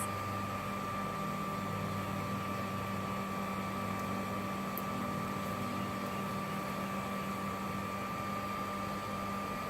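A shop vacuum converted into a bee vacuum running steadily, a constant motor hum with a whining tone and a hiss of air.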